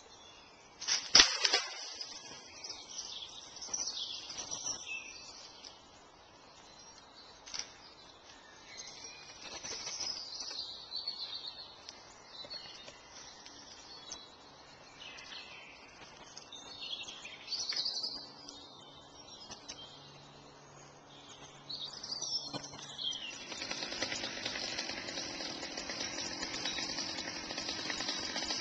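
Garden birds singing and calling, with one sharp knock about a second in. Near the end a steady noise with a faint hum sets in under the birdsong.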